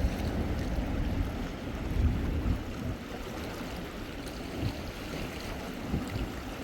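Wind buffeting the microphone in uneven gusts over a steady wash of sea surf.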